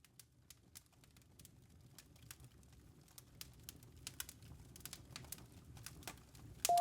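Campfire crackling and popping over a low rumble of burning wood, fading in and growing louder. Near the end a steady ringing tone starts suddenly.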